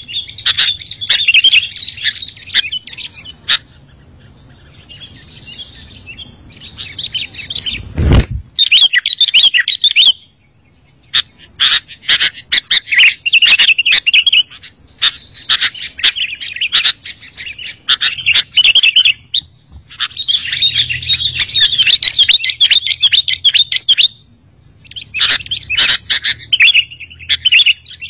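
Sooty-headed bulbuls (kutilang) chattering and chirping in rapid bursts, broken by short pauses. A single loud thump comes about eight seconds in.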